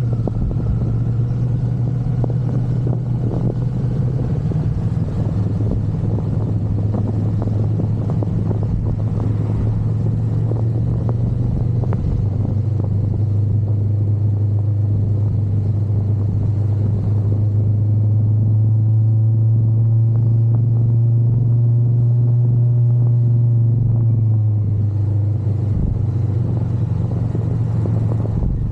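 Motorcycle engine running steadily while riding, under a heavy low wind rumble on the microphone. Past the middle the engine note climbs a little, then eases off near the end.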